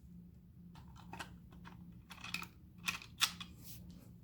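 Irregular light clicks and ticks of a screwdriver backing out the small screws that hold a DC fan in a humidifier's plastic base, over a faint steady low hum.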